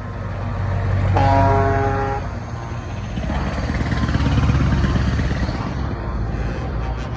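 Heavy truck engines running, with a truck air horn sounding one steady blast for about a second, a second in. Then a deep engine rumble builds and swells for a few seconds as a truck accelerates past.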